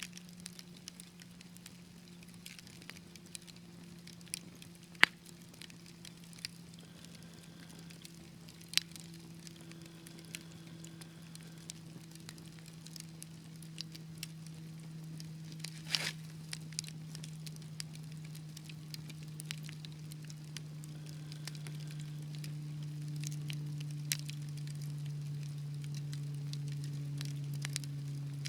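Fireplace fire crackling, with scattered sharp pops, the loudest about five seconds in. A low steady hum runs underneath, drifting slowly lower in pitch and growing louder.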